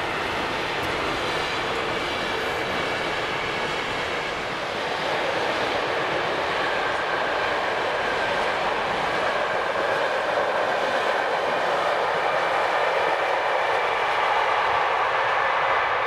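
Train passing: a steady rush of wheels on rails with a faint high whine over it, growing a little louder partway through.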